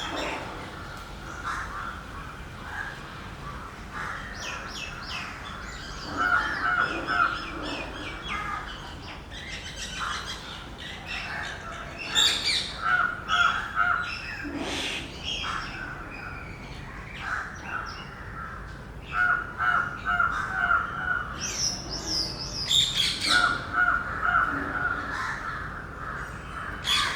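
Birds calling over and over in short, sharp calls, with a quick run of repeated notes coming back every few seconds.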